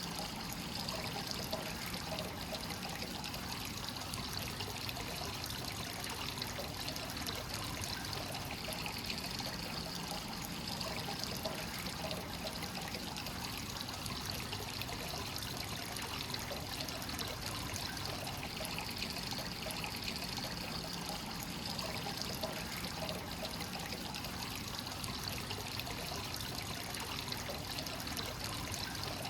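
Free-flowing hot-spring source water pouring steadily into a bath, a continuous trickling splash.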